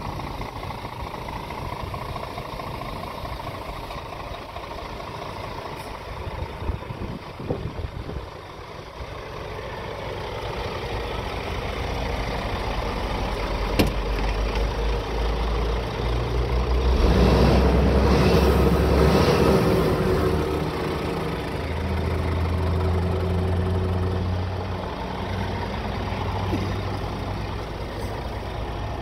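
Scania R 450 truck's 13-litre inline-six diesel engine running at idle, growing louder from about ten seconds in and loudest for a few seconds past the middle with a rushing noise on top, then settling back to a steady idle.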